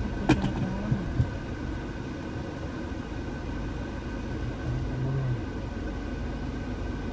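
Steady engine and road noise heard inside a car's cabin as it drives. A few sharp clicks come in the first second or so.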